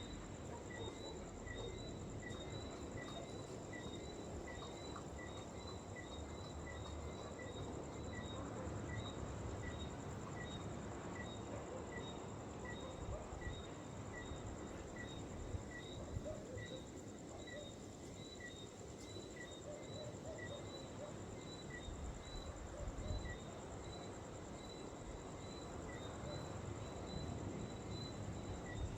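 Insects trilling steadily in a high, continuous chorus, with a short chirp repeating at an even pace a little under twice a second. A low rumbling noise sits underneath.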